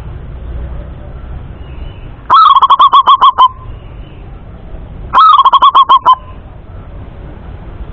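Male zebra dove (perkutut) singing: two short phrases of rapid staccato coos a couple of seconds apart, each a quick run of about eight clipped notes that opens on a slightly higher note.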